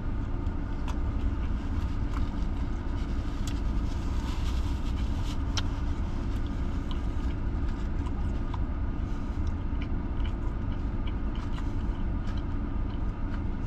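Steady low rumble of a car idling, heard from inside the cabin, with small scattered clicks of chewing and of handling the burger.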